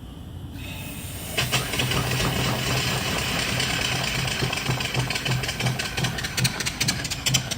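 Single-cylinder reproduction steam engine (3-inch bore, 4-inch stroke) being given steam. A hiss of steam starts and swells, then the engine chuffs and knocks in a slow, even beat as it gets going, the beats turning sharper toward the end.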